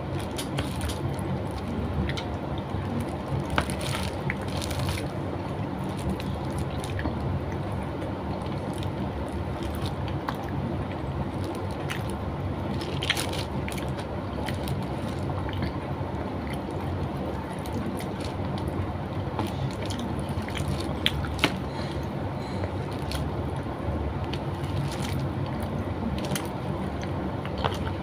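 Close-up eating sounds: chewing and wet mouth noises as rice and garlic chicken are eaten by hand, with scattered small clicks. A steady low rumble sits underneath.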